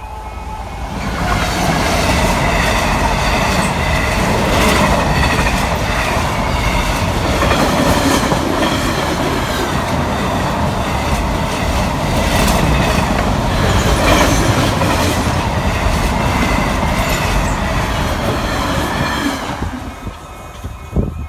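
A Class 66 diesel locomotive passes, followed by a long train of container flat wagons rumbling and clattering over the rails with repeated wheel clicks. The sound rises about a second in and drops away near the end as the last wagon goes by.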